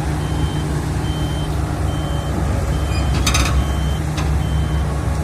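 Heavy diesel machinery running steadily, with a warning alarm beeping about once a second, as an excavator is driven up onto a truck's trailer. A short hiss of air a little over three seconds in.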